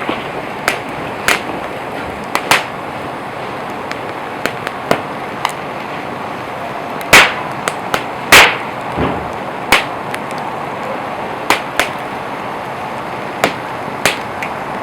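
Wood campfire burning: a steady hiss with irregular sharp crackles and pops, the two loudest a little past the middle.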